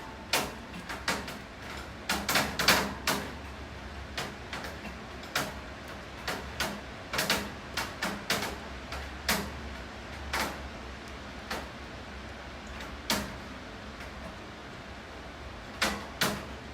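Steady rain with frequent, irregularly spaced sharp taps of drops striking a hard surface close by, some coming in quick clusters.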